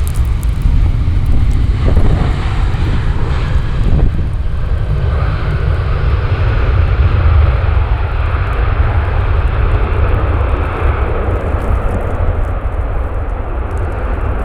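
Jet airliner engines running, a steady low rumble with a rushing noise that swells through the middle and eases near the end.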